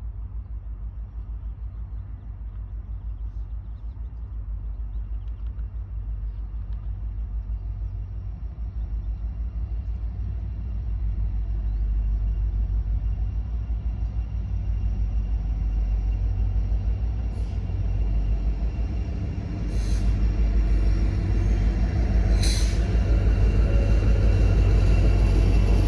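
A train approaching: a low diesel-locomotive rumble that grows steadily louder, with three short bursts of hiss in the last third.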